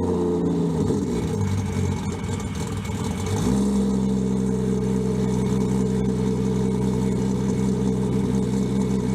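Toyota Supra's engine running shortly after a cold start: its revs drop and it runs rough and uneven for a few seconds, then settles into a steady idle about three and a half seconds in.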